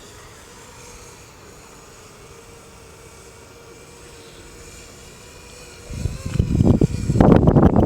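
ZMR250 FPV racing quadcopter's motors whining faintly and steadily. About six seconds in, a loud, gusty rush of noise starts, and it grows louder just after seven seconds.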